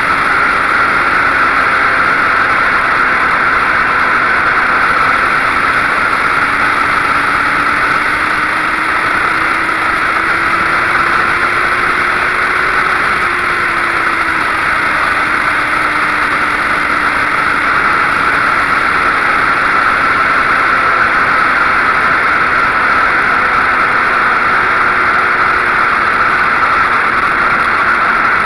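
Motorcycle riding at a steady cruise: the 2006 Suzuki GSX-R1000's inline-four hums under a heavy rush of wind noise, its pitch climbing slowly until about halfway and then easing back down.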